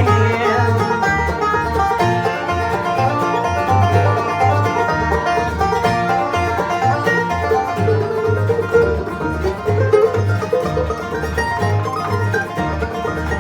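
Bluegrass band playing an instrumental break between verses: banjo picking over guitar, with a steady beat of bass notes underneath.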